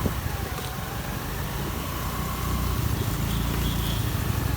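A vehicle engine running steadily while driving, a continuous low rumble.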